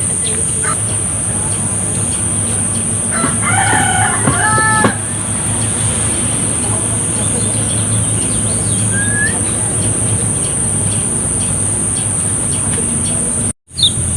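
A rooster crows once, about three seconds in, over a steady high-pitched whine and a low hum, with a few faint, short songbird chirps scattered through. The sound cuts out briefly near the end.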